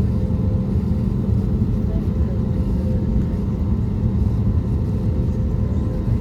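Steady cabin noise inside a rear economy seat of an Airbus A320neo: the deep rumble of its CFM LEAP-1A26 engines and the airflow, with a faint steady hum running through it.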